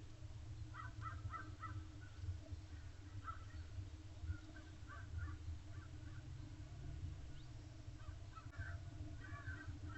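Faint birds calling in clusters of short notes, about a second in, again around the middle and near the end, over a steady low hum.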